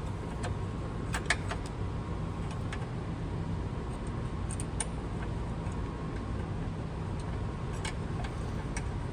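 Scattered light metallic clicks and taps as a car battery's terminal clamp and its hardware are handled and fitted back onto the post, over a steady low hum.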